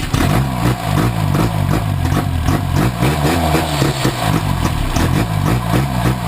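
Freshly rebuilt engine of an old Toyota 4x4 firing and running rough on its first start, its revs surging up and down. It is running only on gasoline poured in by hand, with no working fuel pump.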